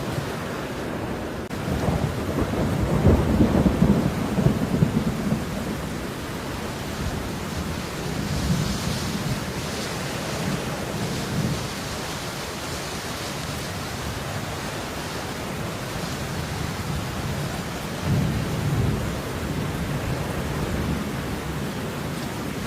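Steady falling rain, a dense hiss, with low rumbles swelling up about two seconds in and again near the end.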